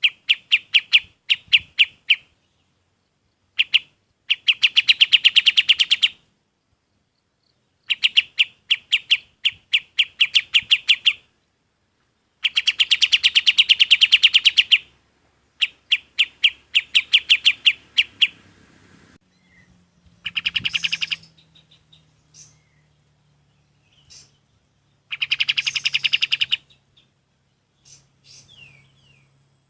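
Kapas tembak songbird singing a series of rapid trills, each a fast run of evenly repeated notes lasting one to three seconds, separated by short pauses. From about two-thirds of the way in, fainter scattered chirps join, along with a low hum.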